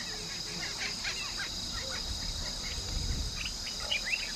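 Steady high-pitched chirring of insects, with many short scattered chirps over it and a low rumble for about a second and a half near the middle.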